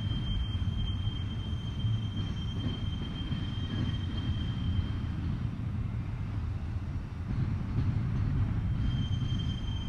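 A freight train rolling past, a steady low rolling noise from its wheels on the rails. Over it is a thin, steady high tone that drops out about halfway and comes back near the end.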